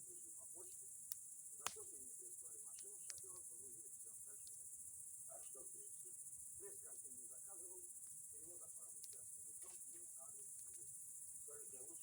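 Bonfire of boards and pine cones crackling quietly with a few sharp pops, the loudest about a second and a half in, over a steady high chirring of crickets.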